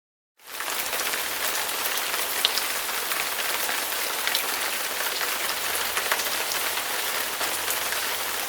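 Steady rain falling, with individual drops ticking sharply through it. It cuts in suddenly about half a second in.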